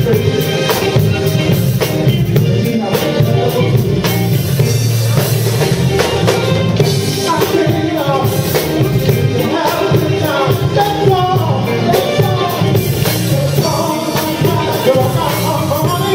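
A live band playing a song: a steady drum beat, bass and keyboards, with a voice singing over it.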